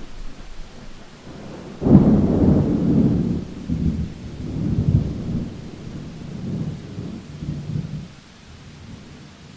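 Thunder: a sharp clap about two seconds in that rolls on as a low rumble in several waves for about six seconds, over steady rain.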